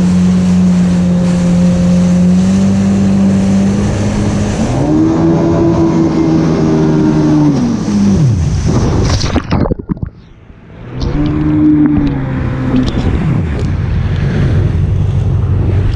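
2006 Yamaha FX Cruiser jet ski's engine running under way, revving up and easing off twice, over wind and water noise. The sound drops away briefly about ten seconds in.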